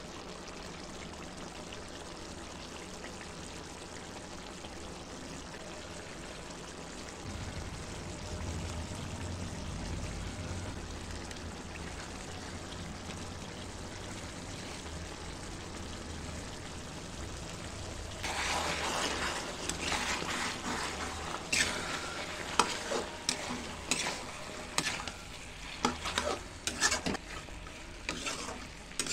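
Chicken curry with masala frying in a metal kadai: a steady sizzling hiss. From about two-thirds of the way through, the sizzle grows louder and a spatula scrapes and knocks against the pan as the curry is stirred.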